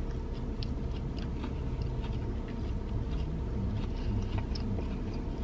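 A person chewing a waffle fry: soft, scattered crunching and mouth clicks over a steady low hum.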